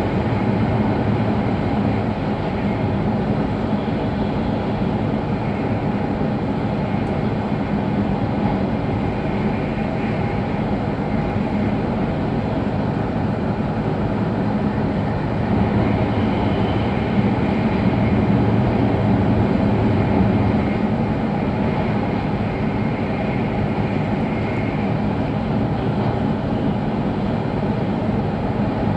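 Steady low rumbling running noise of a JR East E5 series Shinkansen, heard inside a passenger car while the train runs. It swells a little for a few seconds past the middle.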